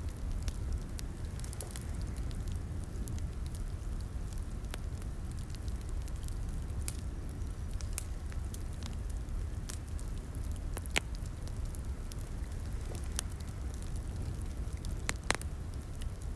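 Fireplace wood fire crackling: a steady low rumble of flame under irregular sharp pops and snaps, the loudest pops about 11 and 15 seconds in.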